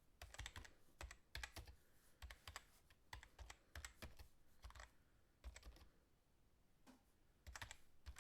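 Faint, irregular clicking and tapping, several quick clicks at a time with short pauses between, like keys being typed.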